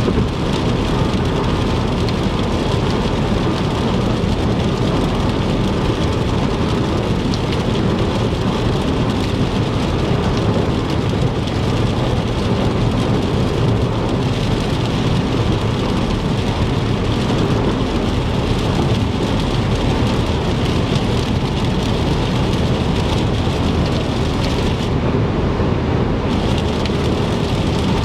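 Car driving on a wet interstate in heavy rain: steady rain on the car and tyre hiss on the wet road over a low, constant road rumble. The upper hiss thins out for about a second near the end.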